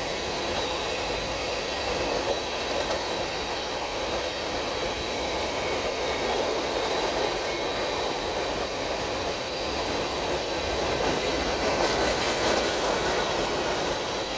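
Empty covered hopper cars of a freight sand train rolling past at speed: a steady rumble of steel wheels on rail, with a few wheel clicks near the end.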